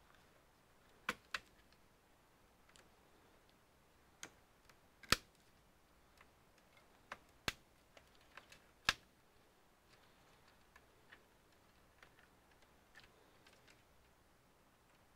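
Scattered sharp clicks and light taps of small tools and parts being handled during a computer repair, irregular and a few seconds apart, with the loudest about five and nine seconds in.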